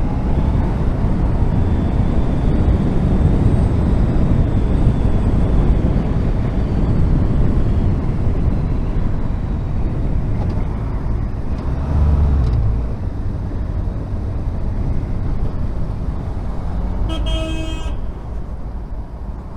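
Honda VFR1200F's V4 engine running under steady wind rush as the motorcycle rides through traffic, with a louder low rumble about twelve seconds in. A vehicle horn toots once, briefly, near the end.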